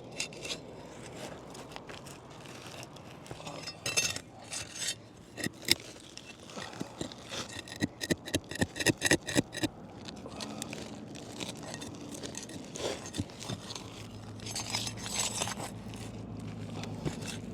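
A metal pry bar scraping and clicking against asphalt roof shingles as they are worked loose from their seal strips, in a quick run of sharp clinks and scrapes. A low steady hum comes in during the second half.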